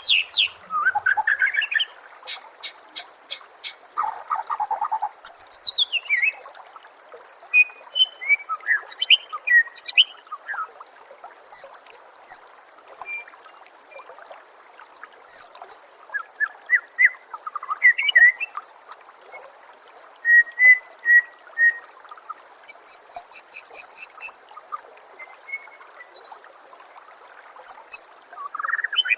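White-rumped shama (murai batu) singing a varied song of clear whistles, slurred notes and chirps, with rapid rattling trills near the start and again late on. Underneath runs a steady trickle of babbling water.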